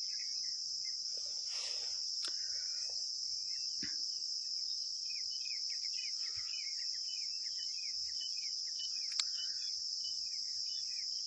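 Steady high-pitched chirring of crickets in the background, with a few faint clicks and taps.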